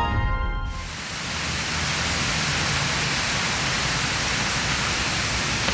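Background music cutting off in the first second, followed by a steady, even hiss of outdoor noise.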